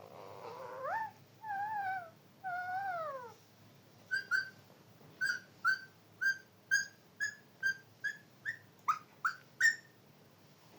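Pet parrot whistling: three drawn-out whistles that glide up and down, then a quick run of about a dozen short whistled notes, two or three a second, the last few sliding sharply upward.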